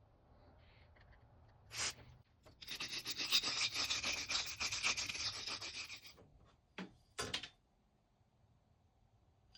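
Hand sanding: about three and a half seconds of quick, rasping rubbing strokes, with a few short hissing bursts just before and after.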